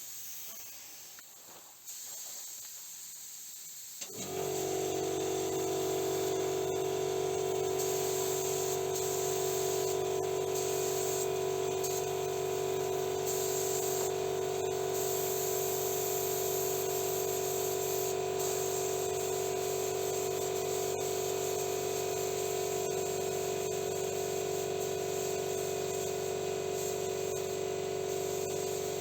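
Paint spray gun hissing as it lays down solvent-based base coat. About four seconds in, a steady hum starts suddenly and runs on under the hiss.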